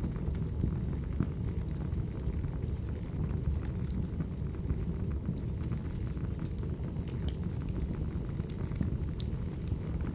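Wood fire burning: a steady low rumble of the flames with scattered sharp crackles and pops from the burning logs.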